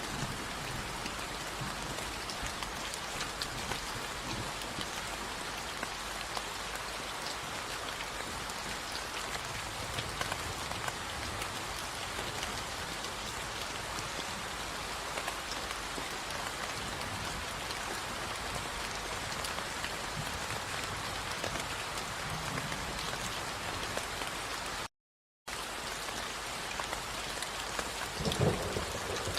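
Steady rain falling, an even hiss of many drops at a constant level. The sound cuts out completely for about half a second a few seconds before the end, and a low rumble swells up near the end.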